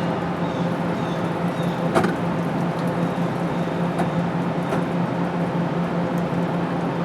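Passenger train rolling through the station: a steady rumble of wheels on rail with a low, even hum. A sharp clank about two seconds in, and lighter clicks a couple of seconds later.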